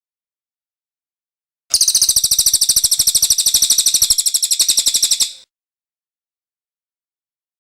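Cililin bird song: one very high-pitched, rapid trill of about ten notes a second, starting nearly two seconds in and stopping after about four seconds, between silent pauses.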